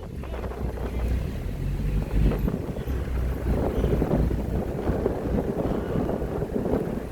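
Car driving slowly, with a steady low rumble and wind buffeting the microphone.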